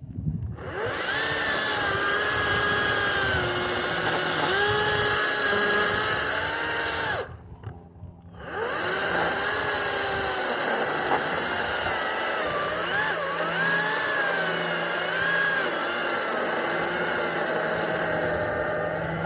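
Kobalt 40V cordless electric chainsaw cutting low on a cedar stump, its motor whine wavering and sagging as the chain loads up in the wood. It stops about seven seconds in and starts again a second later. The owner puts the slowing down to friction on the chain and bar from cutting tight against the ground, not a failing battery.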